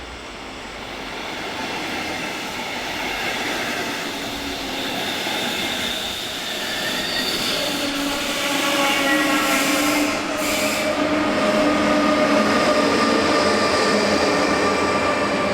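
A train running through the station, growing steadily louder, with several steady high tones joining the rumble about halfway through.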